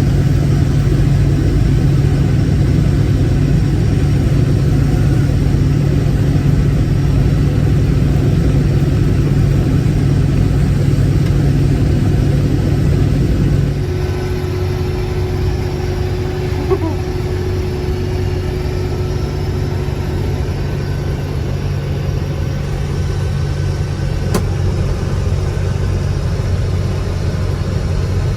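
Case IH 1680 combine running steadily under load, its engine and threshing drive a continuous low drone. About halfway through the drone drops slightly in level and pitch, and a faint click comes near the end.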